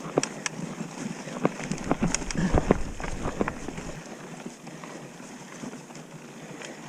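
Mountain bike riding over rough trail: a run of knocks, clicks and rattles from the bike, heaviest about one and a half to four seconds in, with a low rumble at its peak.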